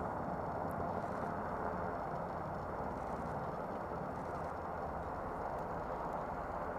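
Steady rotor and turbine noise from UH-60 Black Hawk helicopters.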